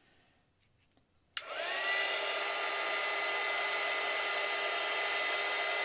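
Electric heat gun switched on about a second and a half in, its motor spinning up within half a second, then running steadily with a constant blowing noise and a steady whine.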